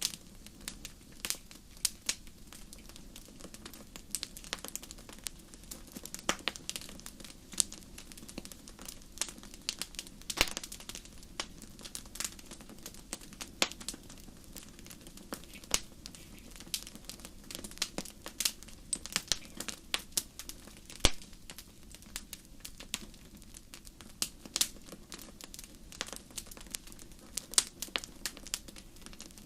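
Campfire crackling: irregular sharp pops and snaps, several a second and uneven in loudness, over a faint, steady low rumble.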